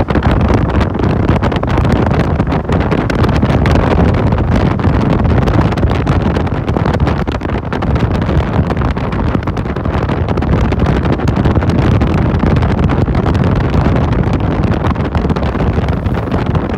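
Steady, loud wind rushing over the microphone of a passenger on a moving motorcycle taxi, with the motorcycle's running and road noise underneath.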